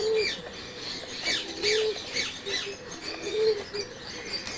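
A dove cooing, short low coos repeating about every second and a half, over the quick high chirping of many small birds in an aviary.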